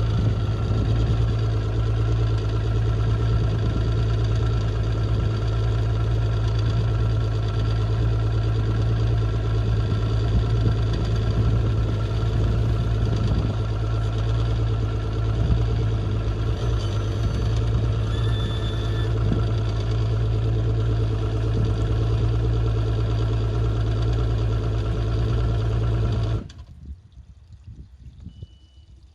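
Mercury OptiMax 150 two-stroke outboard idling steadily, run on land as a pre-season start-up check, then shut off abruptly a few seconds before the end. A short faint beep follows after it stops.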